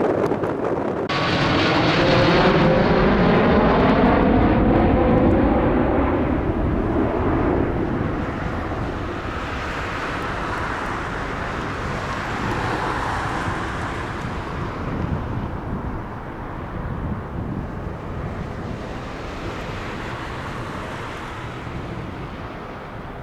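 Turboprop airliner passing close by, its engine and propeller tones falling in pitch as it goes past, then its sound slowly fading as it moves away.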